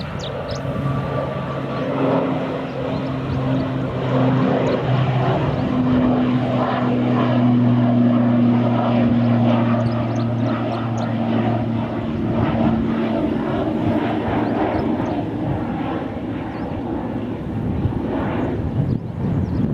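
Airliner passing close, its engines running loud and steady with a low drone over a rushing noise; the drone dips slightly in pitch and fades out about two-thirds of the way through.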